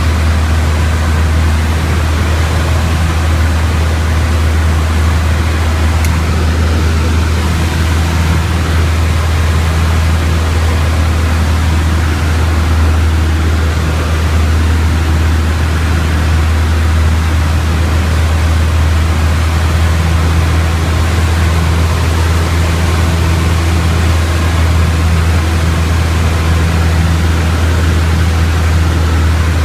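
Piper Tomahawk's four-cylinder Lycoming engine and propeller droning steadily in flight, a constant low hum with a hiss of airflow over it.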